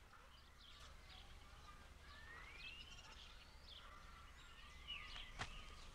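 Faint birds chirping, with scattered short calls and a couple of rising whistles over a low steady hum. A single sharp click comes near the end.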